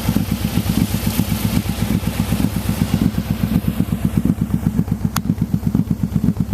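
ATV engine running at a steady speed with an even, rapid putter. A single sharp tick sounds about five seconds in.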